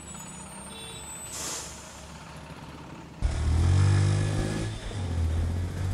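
A motorcycle engine starts abruptly about three seconds in and revs up, over a bus-stand traffic din. There is a short hiss, like air brakes, about a second and a half in.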